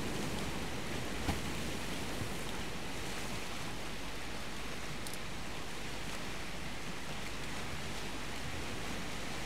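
Steady wash of sea waves with wind noise on the microphone, and one faint click about a second in.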